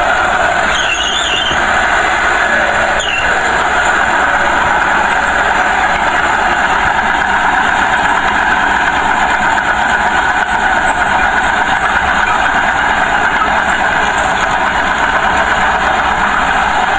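Small Komatsu bulldozer working, its engine running steadily with a loud, even clatter. Brief high squeals cut through about one second and three seconds in.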